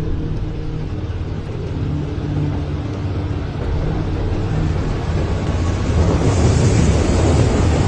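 Boat motor running steadily with a low hum. A rushing noise builds and grows louder from about six seconds in.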